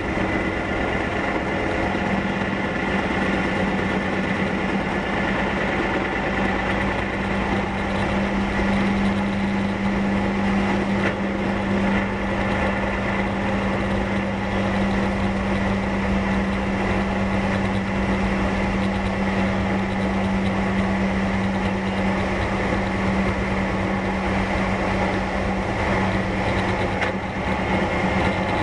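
Steady hum inside the passenger car of a Keihan 1000 series electric train, with a constant-pitch drone throughout and no rail clatter.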